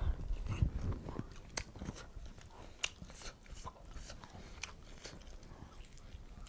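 Close-miked chewing and biting of cooked whole duck, with several sharp crunches and crackles scattered through as the meat is bitten and the bird is pulled apart by hand.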